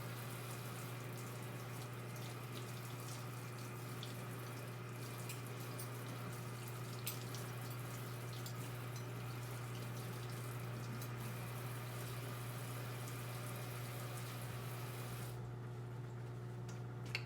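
Microwave oven running: a steady low hum over a fan-like hiss, with faint ticks and crackles. About fifteen seconds in the hiss drops away while the hum carries on.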